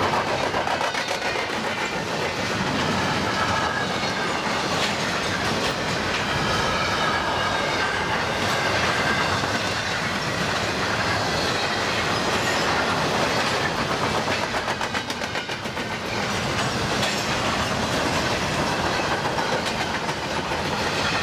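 Freight train's intermodal well cars rolling past on the mainline: a steady rumble with wheels clicking over rail joints, and a thin high wheel squeal that comes and goes.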